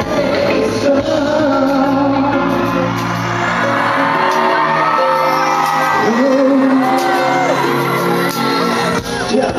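Live pop music in a large hall: singing over a loud band or backing track, with whoops and shouts from the audience.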